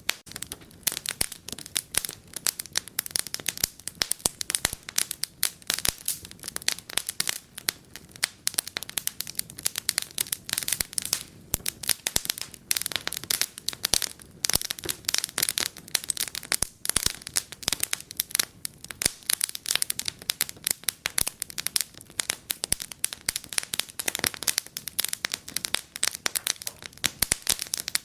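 Wood fire burning in a fireplace, crackling and popping with a dense, irregular stream of sharp snaps.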